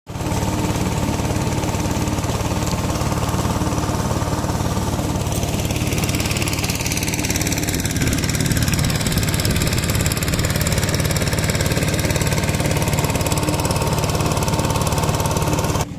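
A small fishing boat's engine running steadily with an even, rapid low throb; it cuts off abruptly just before the end.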